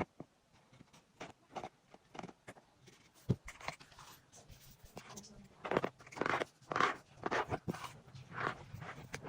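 A run of short, irregular squeaks, sparse at first and coming thicker and louder in the second half.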